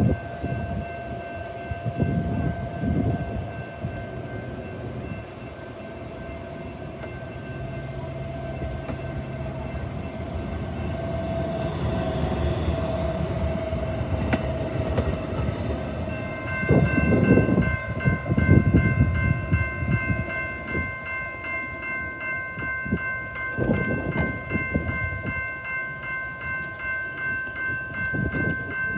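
Commuter train at the station: rumbling with a steady tone for the first half, then a higher ringing tone that pulses about twice a second from about halfway through, with heavy rumbles mixed in.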